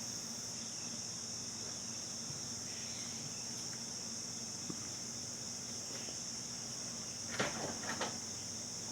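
Steady high-pitched chirring of crickets or other insects in the background, under a faint low hum, with a couple of soft handling rustles near the end.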